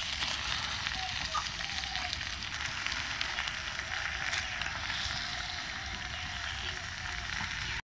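Chopped chicken livers sizzling in oil and spice paste in a nonstick frying pan while being stirred with a silicone spatula: a steady frying hiss that cuts off suddenly just before the end.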